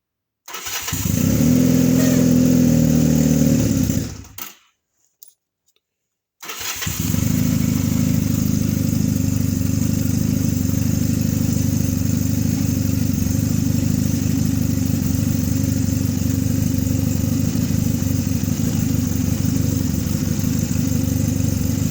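1986 Honda engine cold-started at about 40 °F. It runs for about four seconds and cuts out, then after a two-second pause fires again and keeps running steadily.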